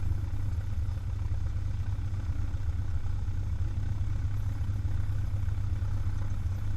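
Cessna 172 XP's single piston engine and propeller running steadily, a low even drone.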